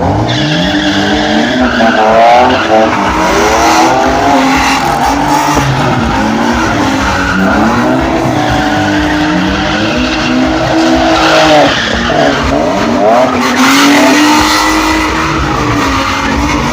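Drift car's engine revving up and falling back over and over, its pitch swinging with each throttle blip, over the continuous screech of tyres spinning and sliding.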